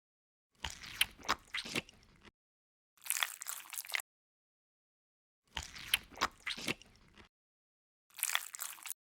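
ASMR eating sound effects: crunchy bites and chewing in four short bursts, each cut off into dead silence before the next.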